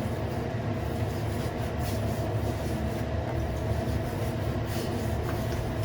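Steady low background rumble with a faint constant hum, unchanging throughout; a few very faint light clicks sit on top of it.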